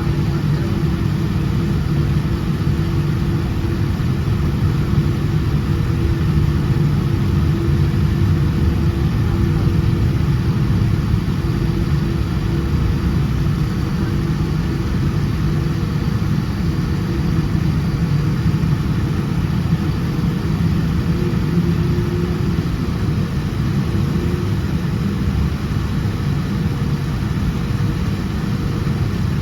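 Boeing 787-10 jet engines running steadily at low power, a constant low rumble with a faint steady hum and no rise in pitch.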